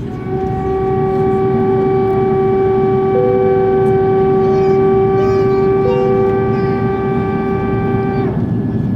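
Airliner cabin on approach: the steady rush of the aircraft noise, with a loud, even, pitched whine that holds for about eight seconds and stops abruptly near the end. A second, higher tone joins it for a couple of seconds in the middle.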